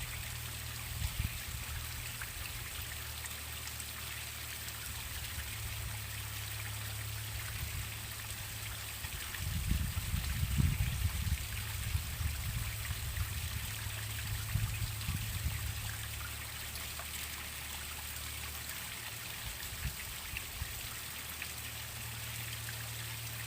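Waterfall water splashing and rushing in a steady hiss. Beneath it runs a low rumble that swells into uneven gusts for several seconds around the middle.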